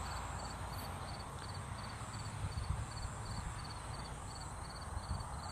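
Insects chirping in a steady rhythm, about three short chirps a second, with a higher insect trill coming and going above them, over a low outdoor rumble.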